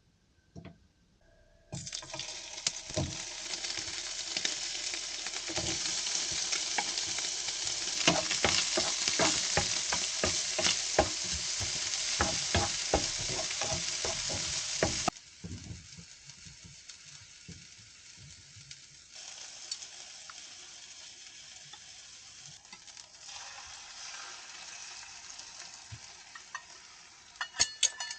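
Food sizzling in a frying pan, full of small crackles and pops, with some stirring. It drops suddenly about halfway through and goes on more quietly.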